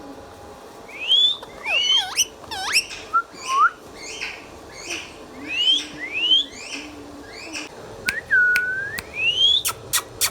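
Indian ringneck parrot giving a quick series of short, rising whistled calls, with one longer, lower call about eight seconds in. A few sharp clicks follow near the end.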